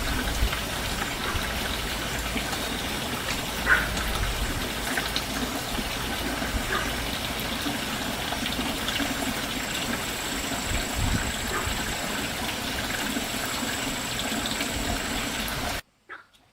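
Steady rush of running water, gushing evenly, that cuts off abruptly near the end.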